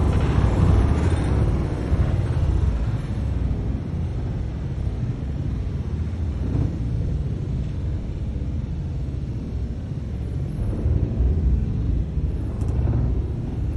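Low rumble in the aftermath of the Beirut port explosion: the blast's tail dies away over the first couple of seconds, then a steady low rumble carries on.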